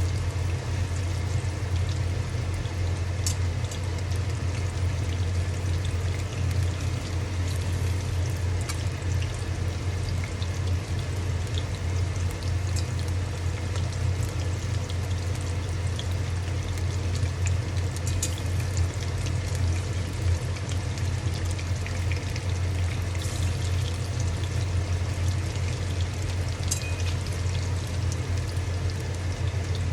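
Battered fish pakoras deep-frying in hot oil: a steady sizzle with occasional sharp pops, over a low steady hum.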